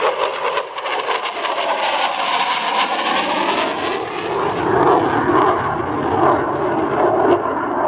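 Saab JAS 39 Gripen fighter's single RM12 turbofan, a loud steady jet rush as the aircraft flies past. It has crackling in the first second or so, and a sweeping whoosh in the first few seconds.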